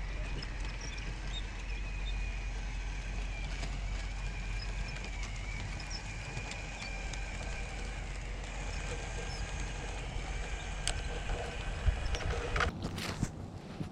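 RC rock crawler's electric motor and gears whining, the pitch drifting with throttle, with small clicks and knocks of the truck working over rock. Wind rumbles low on the microphone, and a few sharp knocks come near the end.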